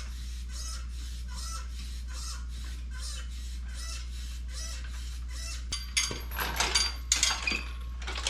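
Hydraulic pump of a two-stage transmission jack worked in quick, even strokes, about two a second, each stroke giving a short squeak over a steady low hum. Near the end sharp metal clicks and clatter as the jack's parts are handled.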